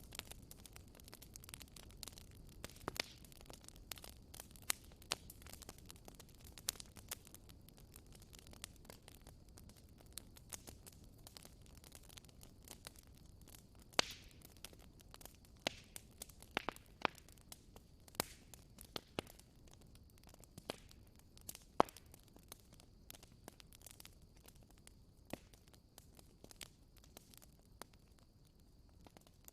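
Campfire of burning wood crackling, with irregular sharp pops and snaps over a low, steady rush of the flames.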